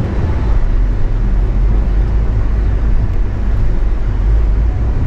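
Steady low engine and road rumble heard from inside a car's cabin as it drives slowly.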